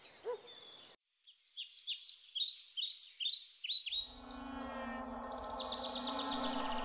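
Songbirds singing in a run of quick, falling chirps. From about four seconds in, a steady low humming tone with several pitches joins, under fast high trills.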